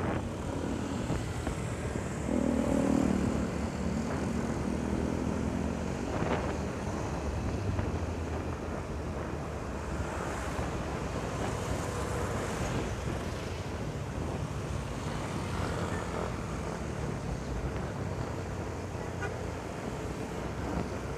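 Riding noise from a motorcycle on a highway: a steady mix of engine, tyre and wind noise, with a pitched engine note standing out for a couple of seconds about two seconds in.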